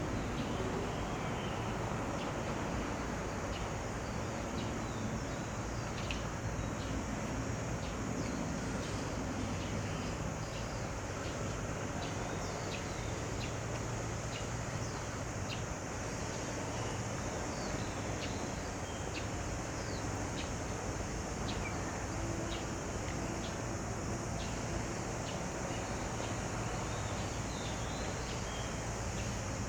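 Outdoor park ambience: many short, high bird chirps over a steady low hum of distant traffic.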